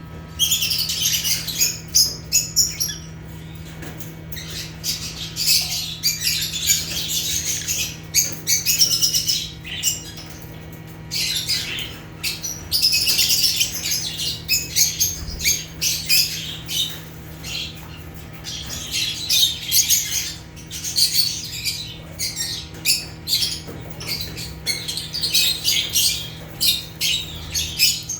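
A flock of lovebirds chattering in rapid high-pitched chirps and squawks that come in dense bursts a few seconds long, with quieter calls between. A steady low hum runs underneath.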